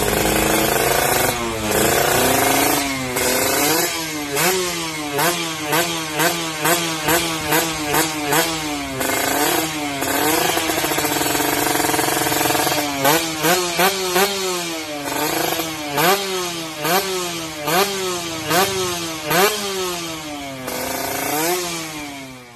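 Kawasaki Ninja R/RR 150 two-stroke single-cylinder engine through a Creampie aftermarket exhaust, revved in quick repeated throttle blips, each rising sharply and falling back, with a couple of stretches held at steady revs. The exhaust note is crisp and tinny ("garing kemrincing").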